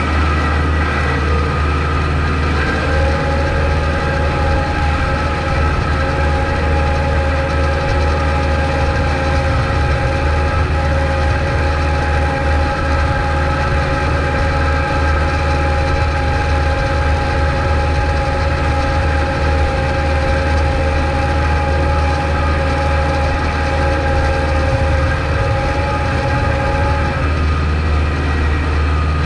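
Kubota MX5200 tractor's diesel engine running steadily while plowing snow. A steady whine joins the engine about three seconds in and stops near the end.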